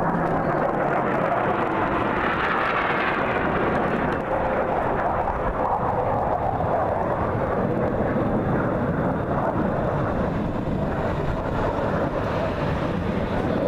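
An airplane flying past. The sound grows brighter and stronger about two seconds in, then slowly eases off.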